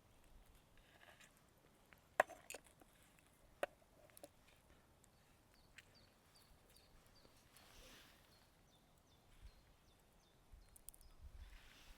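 Near silence with a few sharp clicks and taps: one at about two seconds in, a second soon after, and another near the four-second mark.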